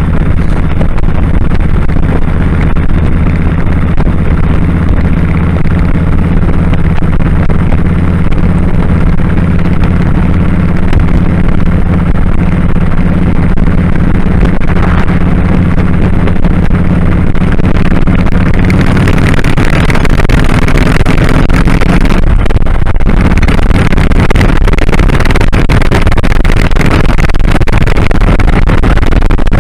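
2001 Kawasaki Drifter 1500's V-twin engine running steadily while riding, mixed with wind rush; about two-thirds of the way through the wind noise grows louder and the engine note fades under it.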